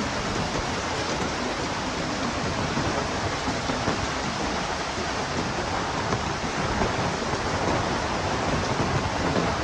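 Heavy rain and wind in a storm, a steady, dense roar of falling rain.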